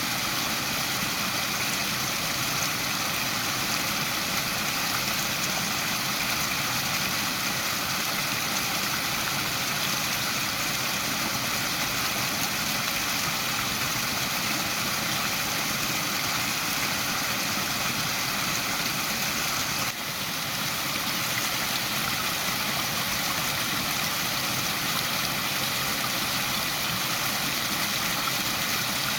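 Waterfall: falling water rushing in a steady, even hiss, with a brief dip in level about two-thirds of the way through.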